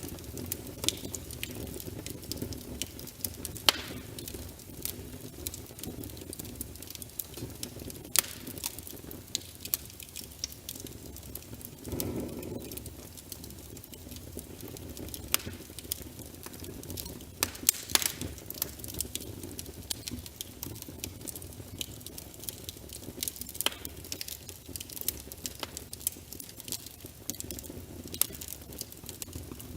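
Logs burning in a fireplace: irregular crackles and sharp pops over a low, steady rumble of flame, with a brief swell of flame noise about twelve seconds in.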